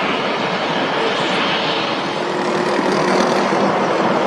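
Aircraft engine noise: a loud, steady rush with faint hum-like tones under it, running without a break.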